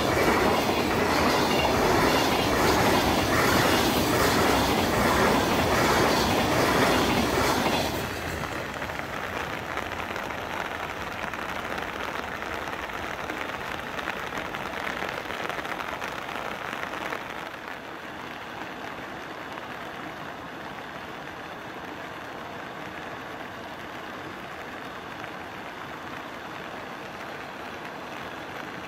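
Freight train's container wagons clattering rhythmically over the rail joints; the last wagon passes about eight seconds in and the rumble drops off sharply, fading away over the next several seconds to a steady low background.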